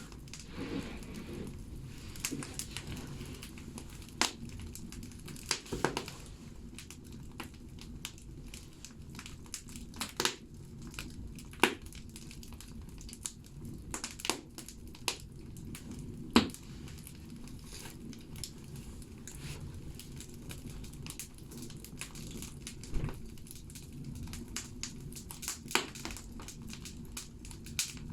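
Logs burning in a wood-fired bathhouse stove, crackling with irregular sharp pops over a low, steady rumble of the fire.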